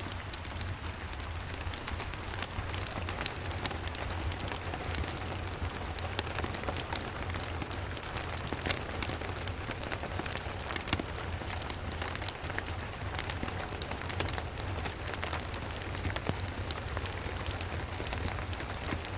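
Steady rain, with many small sharp drop ticks over an even hiss and a low steady rumble underneath.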